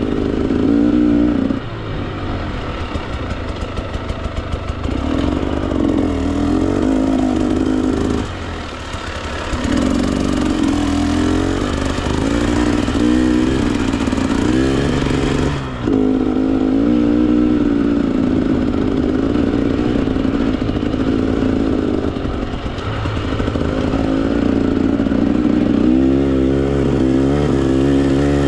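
Husqvarna TE 300 two-stroke dirt bike engine running under load on trail, its revs rising and falling with the throttle. The throttle is briefly shut off about 2, 9 and 16 seconds in.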